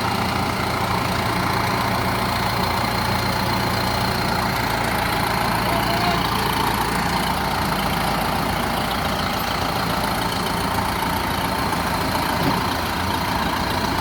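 Heavy diesel engine running steadily at idle, with no change in revs.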